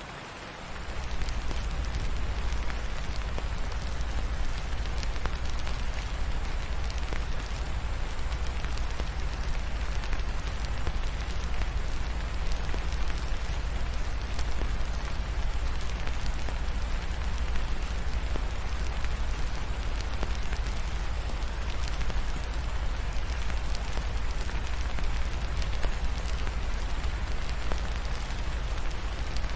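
Steady rain mixed with a crackling fireplace. A deep, steady low rumble comes in about a second in and runs under the rain.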